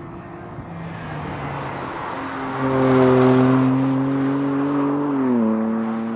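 2014 BMW M3's twin-turbo straight-six running hard as the car drives past. The engine note grows to its loudest about three seconds in and holds a steady pitch, then drops about five seconds in.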